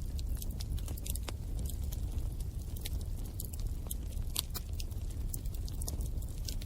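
Bonfire burning: irregular sharp crackles and pops from the burning wood over a steady low rumble of the flames.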